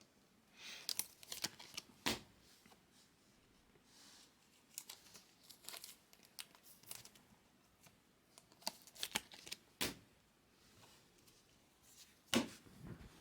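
Trading card packs being torn open and cards handled: scattered short rustles, crinkles and flicks of foil wrappers and card stock, with a sharper snap about twelve seconds in.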